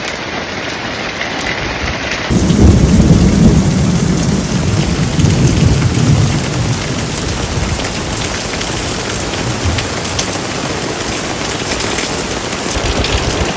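Steady rain falling, with a low rumble of thunder starting about two seconds in and fading over the next few seconds.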